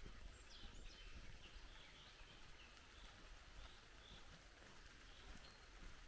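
Faint birdsong: short chirps repeated about twice a second, over a low rumble.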